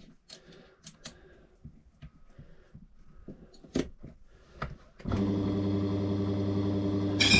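A few light clicks and taps of metal being handled. About five seconds in, a small electric motor starts and runs with a steady hum. Just before the end it turns louder and harsher as it starts cutting deeper into the key blank.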